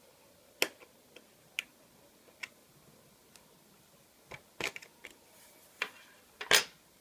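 Irregular sharp clicks and taps of small repair tools and parts on an iPhone 5 being taken apart, a quick cluster of them about two-thirds of the way through and the loudest one near the end.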